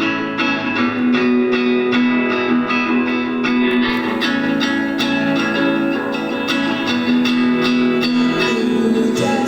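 Guitar playing the instrumental introduction of a song, a steady run of plucked chords and notes.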